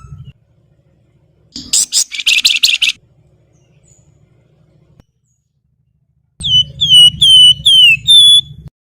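Wergan Jawa ('flamboyan') songbird singing: a rapid, scratchy chattering burst about two seconds in, then near the end a run of five clear whistled notes, each dipping or falling slightly in pitch.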